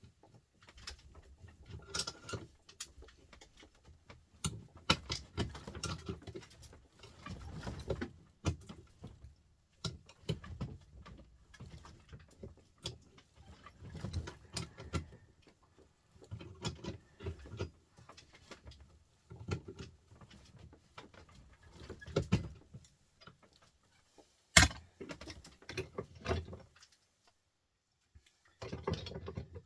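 Intermittent clicking, clinking and rattling of small metal parts and hand tools as a printer motor is taken apart, with one sharp knock about two-thirds of the way through.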